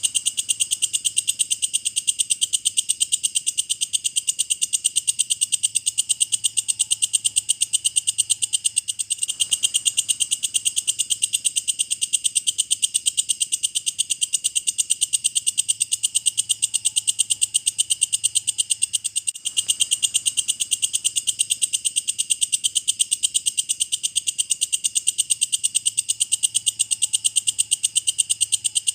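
Walang kecek katydid (bush cricket) calling: a steady, rapid train of high-pitched chirping pulses, several a second, broken twice by a brief gap.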